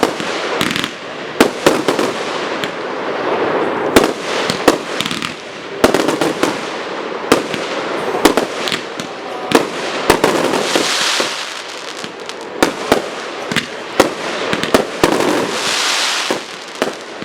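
Fireworks display: a rapid series of aerial shell bangs over continuous crackling, with two stretches of bright, high hissing crackle about ten and fifteen seconds in.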